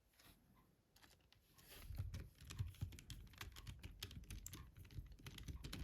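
Faint, rapid clicking and tapping of small plastic phone parts and tools being handled on a work surface, starting about a second and a half in after near silence.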